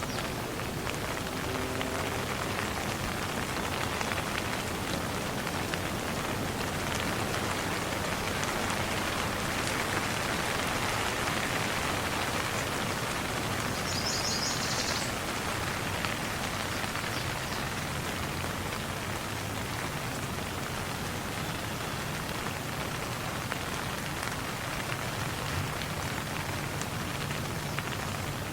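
Steady rain falling and pattering on surfaces, an even hiss of drops without letup. About halfway through there is a brief high-pitched trill.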